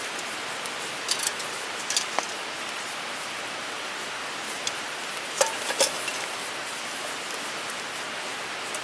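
Wood fire burning in a Picogrill 398 folding fire pit: a steady hiss with scattered sharp crackles and pops, the loudest pair about halfway through.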